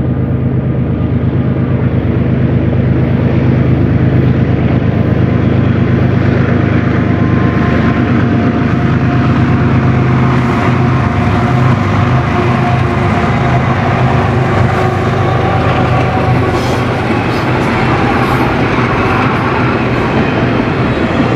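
A lead group of BNSF diesel-electric freight locomotives approaching and passing, their engines making a steady low drone. By the end the double-stack container cars are rolling past, their wheels rumbling and clacking over the rails.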